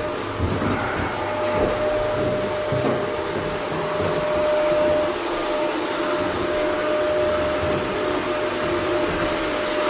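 Vacuum cleaner running steadily, a constant rushing noise with a fixed-pitch motor whine.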